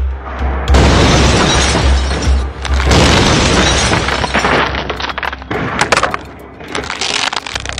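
Car crash: a loud impact with shattering glass and crunching metal in two long noisy stretches, followed by scattered small clicks of debris, over background music with a steady low bass.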